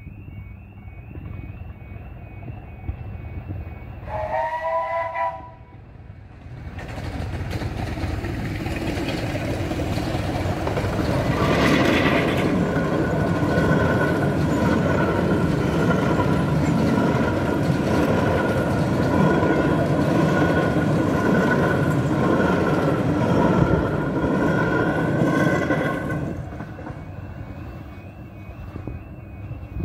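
Level-crossing warning alarm warbling, then a short multi-note warning blast from an approaching Romney, Hythe & Dymchurch Railway miniature train about four seconds in. The train then rumbles and clatters over the crossing for about fifteen seconds, with a steady high squeal over the wheel noise, and the alarm is heard again near the end as the train clears.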